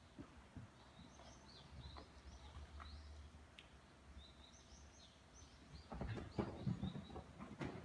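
Birds chirping in short high twittering phrases, twice over. Near the end comes a quick run of dull thuds and knocks, louder than the birdsong.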